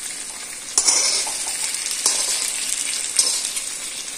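Stuffed okra frying in mustard oil in an iron kadhai, sizzling steadily. The sizzle surges louder three times, about a second apart, as the pieces are turned and pushed into the oil with a knife.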